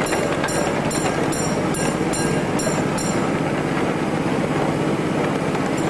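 Miniature ride-on railway train running along its track: a steady rumble, with a regular high clicking about twice a second that stops a little past halfway.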